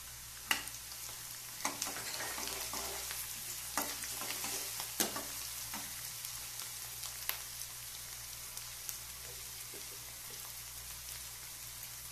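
Chopped onions and ginger-garlic paste sizzling steadily in hot oil in a kadhai, with a steel ladle stirring and clinking against the pan a few times in the first half.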